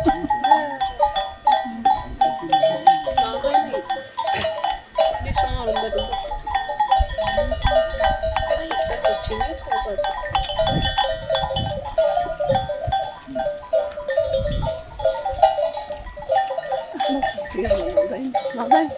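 Bells on a flock of sheep and goats, clinking and clanking together without a break.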